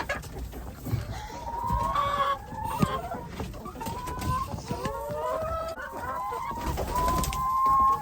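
A flock of chickens clucking and calling, several at once, with short rising and falling calls overlapping and one longer held call near the end.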